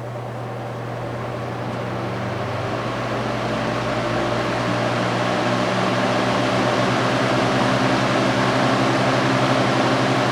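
1967 Lasko 20-inch box fan with a Westinghouse motor and aluminum blades running on its low speed: a steady motor hum under a rush of moving air. The sound grows louder over the first several seconds as the fan comes up to speed, then holds steady.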